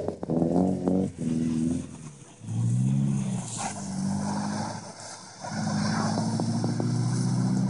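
A Subaru's engine revving hard in long pulls as the car drifts sideways on snow, the revs dropping away briefly about two seconds and five seconds in when the throttle is lifted, then holding high again.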